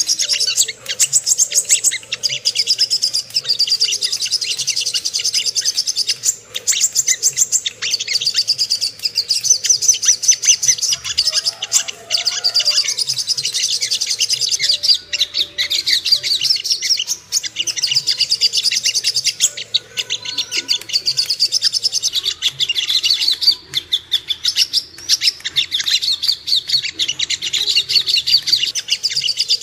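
Sogok ontong (songon) songbird singing a rapid, high-pitched chattering song with only brief breaks, as used for a lure recording to rouse other birds of its kind.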